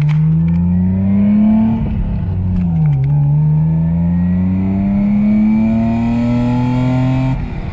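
2001 Lexus IS300's 2JZ-GE inline-six accelerating hard, heard from inside the cabin through its slightly raspy exhaust. The revs climb, fall at an upshift about two seconds in, climb steadily again for about four seconds in the next gear, then drop suddenly near the end.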